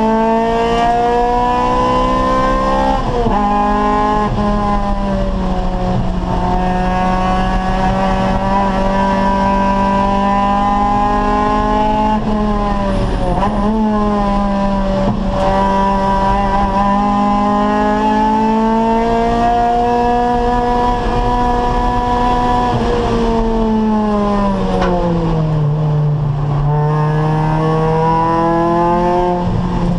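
Acura Integra race car's four-cylinder VTEC engine running hard at high revs, its pitch climbing under throttle, dipping briefly about 3 and 13 seconds in, and falling lower near the end before climbing again as the driver lifts and shifts.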